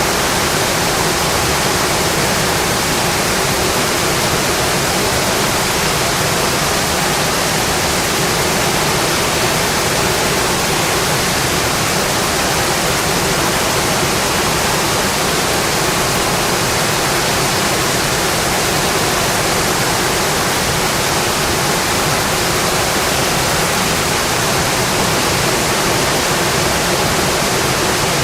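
Steady heavy rain on a metal roof, a dense, even hiss with no letup.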